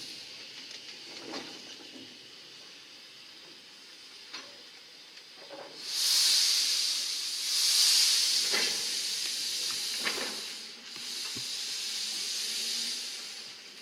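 A hiss of venting pressure on the railway equipment: faint at first, then loud and high-pitched from about six seconds in, in two long gushes with a short break between them. A few faint knocks sound underneath.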